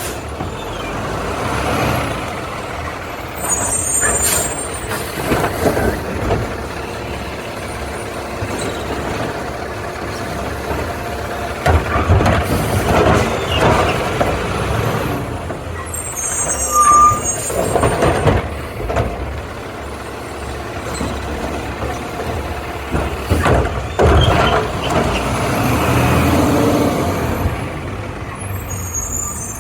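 Garbage truck working, its diesel engine running and swelling in level several times. Three short air hisses, about 3 s in, 16 s in and near the end, fit the truck's air brakes.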